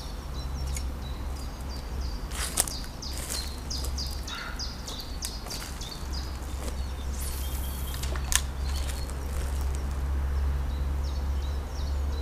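Small songbirds chirping and singing over and over in high, quick notes, above a steady low rumble. A few sharp clicks stand out, the plainest about two and a half seconds in and again about eight seconds in.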